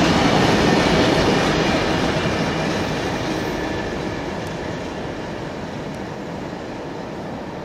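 Freight train's hopper wagons rolling past on the rails, the wheel and rail noise fading steadily as the tail of the train moves away.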